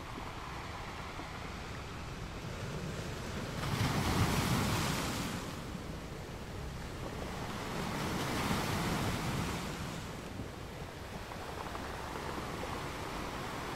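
Ocean waves washing in gently, a steady surf hiss with two louder swells of breaking water, about four and eight seconds in.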